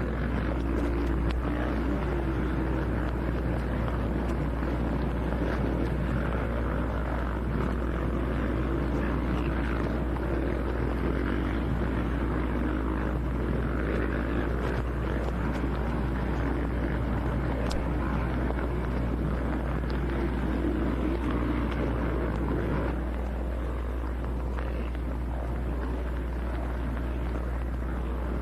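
Motocross bike engines running on the track, their pitch rising and falling as they ride, over a steady low hum; a little quieter in the last few seconds.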